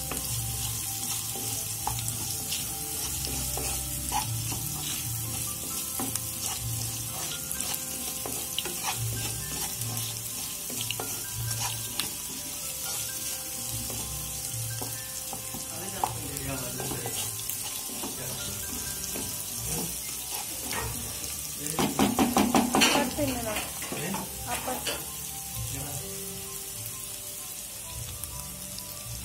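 Chopped onions and green chillies frying in hot oil in a nonstick kadai, sizzling steadily, with a wooden spatula scraping and clicking against the pan as the tempering is stirred. A brief louder pitched sound joins in about two-thirds of the way through.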